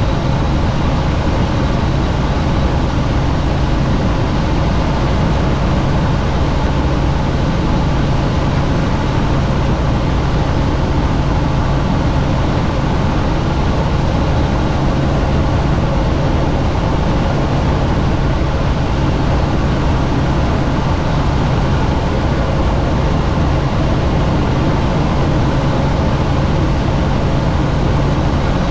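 Helicopter in flight heard from inside the open, doors-off cabin: steady rotor and engine noise with a strong low hum and a heavy rush of wind, unchanging throughout.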